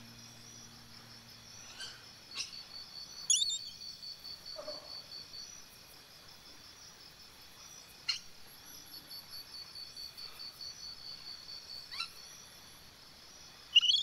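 Short, sharp bird calls every few seconds, the loudest a quick rising chirp a few seconds in, over a fast, even, high-pitched trill that comes and goes.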